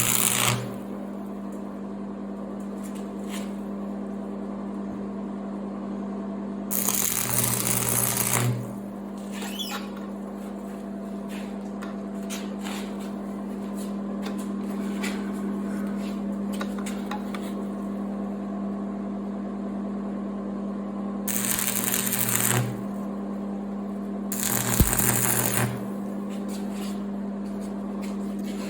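Stick welder humming steadily, broken by four short bursts of arc crackle, each a second or two long, as a gusset is welded onto a farm disc frame. Light scattered ticks fall between the bursts.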